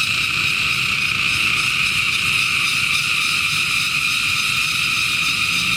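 A chorus of cicadas buzzing in a steady, unbroken, high-pitched drone.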